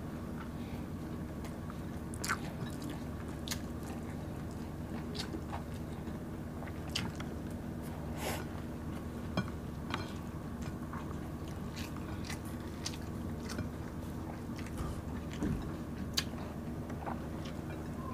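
Close-up eating sounds: chewing and mouth smacking with scattered sharp clicks and crunches as fried dried milkfish and rice are eaten by hand. A steady low hum runs underneath.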